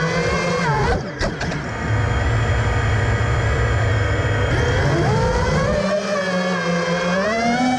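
FPV racing quadcopter's motors whining, their pitch dropping about a second in and climbing again in the second half as the throttle changes.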